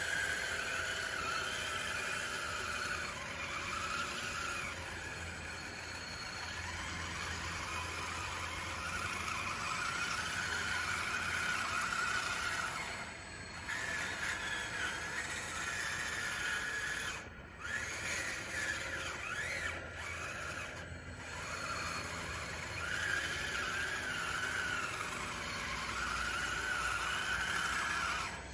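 Motors of a radio-controlled DXR2 bulldozer whining as it pushes dirt. The pitch rises and falls with the load, with a few brief breaks.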